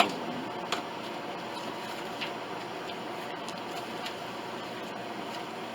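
Steady background hum with a few faint, short clicks.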